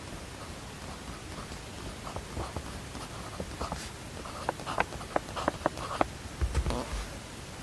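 Small, sharp clicks and taps from desk work, irregular and several a second, over a steady hiss, with a soft low thump near the end.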